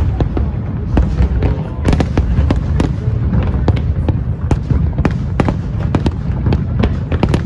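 Aerial fireworks going off in quick succession: many sharp bangs and crackles, several a second, over a continuous low rumble.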